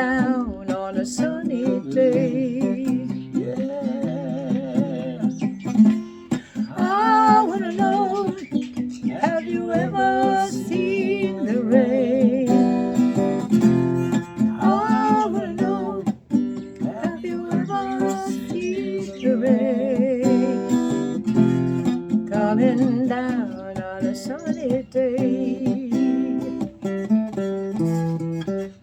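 Music: a strummed acoustic guitar with a wavering melody line over it, without sung words.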